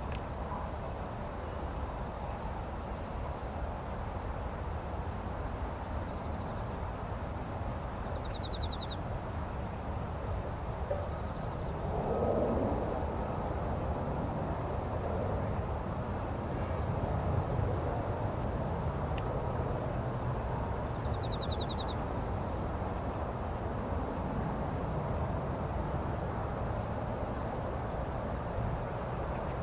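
Insects chirping, with short high trills repeating every several seconds and a steady pulsing high tone, over a steady low background rumble; a brief louder swell comes about twelve seconds in.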